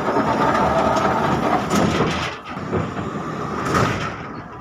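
71-605 (KTM-5M3) tram running along the track: loud rolling noise of the car with a steady tone running through it, easing off near the end.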